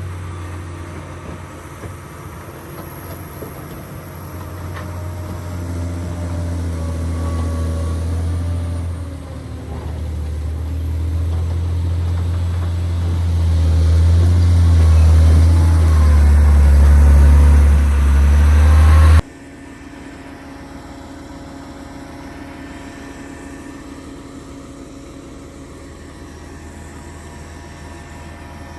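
John Deere 670GP motor grader's diesel engine running with a deep drone that grows louder over the first two-thirds. It then cuts off abruptly to a quieter, steady engine hum.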